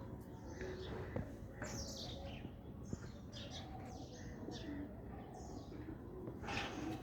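Small birds chirping in quick, scattered calls over low pigeon cooing, with a couple of brief taps.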